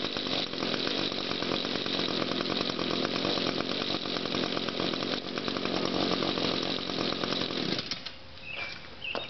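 Echo 50cc two-stroke string trimmer engine running steadily after a cold start, then shutting off abruptly near the end. Afterwards there are a few faint clicks and short high chirps.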